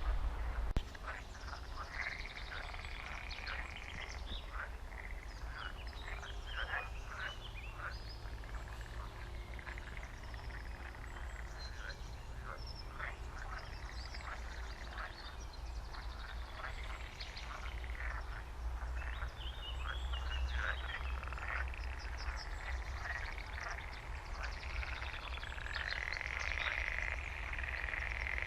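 A chorus of frogs croaking, with many short overlapping calls and, twice, a stretch of a continuous higher trill, over a low steady rumble. A couple of sharp knocks in the first second.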